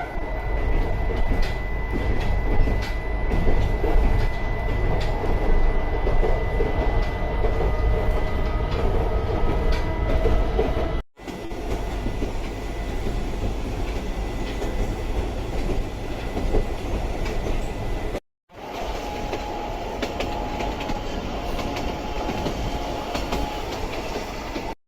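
Narrow-gauge electric train of the Sangi Railway Hokusei Line running along the line, its nose-suspended traction motors and gears giving a steady whine over the rolling noise of the wheels. The sound cuts out briefly twice.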